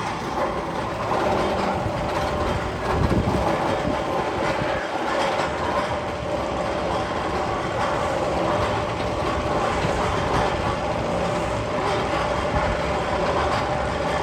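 Steel roller coaster train running along its track with a steady rumble and clatter of its wheels.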